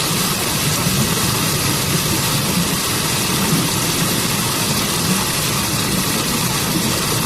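Waterfall on a forest stream: a steady, unbroken rush of falling water.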